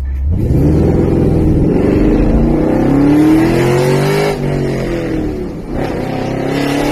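Ford Mustang GT's V8 accelerating hard, its note climbing for about four seconds. The revs then drop, and it pulls up again near the end.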